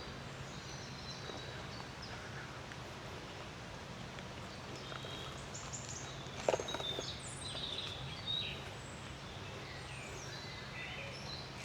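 Wild songbirds chirping and calling: scattered short high chirps and trills, busier in the second half. A sharp knock about halfway through is the loudest single sound, with a smaller one shortly after.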